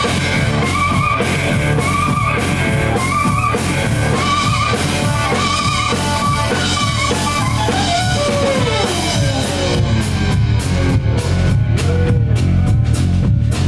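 Live blues-rock band playing an instrumental break: electric slide guitar repeats a short high riff of bent notes over drums and bass, then slides down in a long falling glide about eight seconds in, and the drums come forward near the end.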